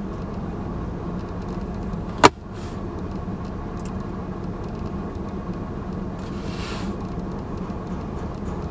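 Steady low hum of a car idling, with one sharp click a little over two seconds in.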